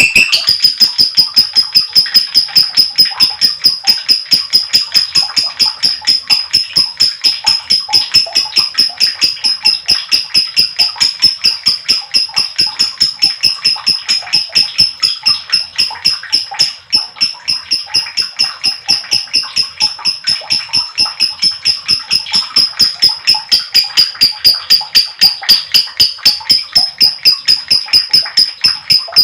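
Lovebird giving a long, unbroken 'ngekek' chatter: a fast, even run of shrill, rattling notes at about five a second, faltering briefly a little over halfway through. This long ngekek is the prized call that lovebird keepers play to provoke their own birds into calling.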